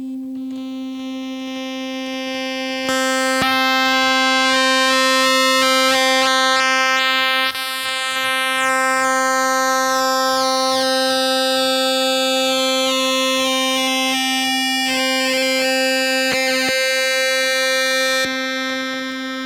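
Plinky synthesizer holding one latched C note, steady in pitch. About three seconds in the tone turns brighter and louder as its waveform is reshaped, with shimmering overtones sweeping through the top, and it turns duller again near the end.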